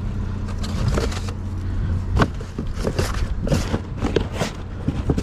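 Pieces of aluminum scrap clattering and knocking together in irregular clanks and scrapes as they are pulled from a dumpster, over a steady low hum.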